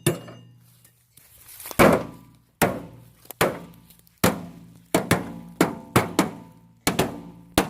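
Small sledgehammer pounding a microwave's sheet-metal casing: about a dozen hard blows, sparse at first and then coming faster, each leaving a short metallic ring.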